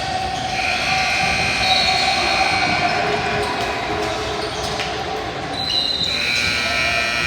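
Basketball game sounds in a gym: a ball bouncing on the court over a steady din, with long, steady high-pitched squeals.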